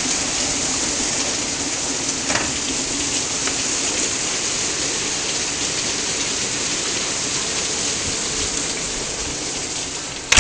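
Heavy rain pouring down in sheets, a steady hiss heard through an open door, with a loud knock at the very end.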